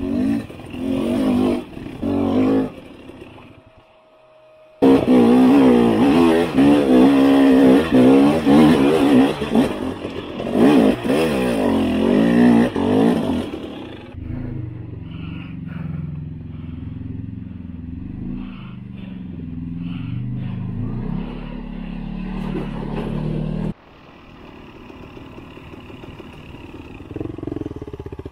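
Dual-sport motorcycle engine under load on a rocky trail: short blips of throttle at first, then hard revving that rises and falls for several seconds, then running lower and steadier before it drops off near the end.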